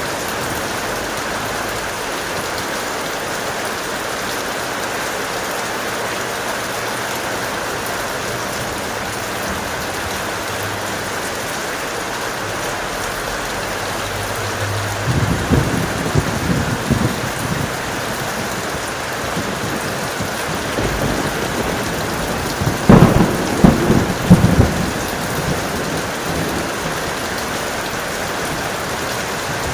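Heavy rain falling steadily. A roll of thunder rumbles about halfway through, and a louder, sharper thunderclap with rolling rumbles follows about three quarters of the way in.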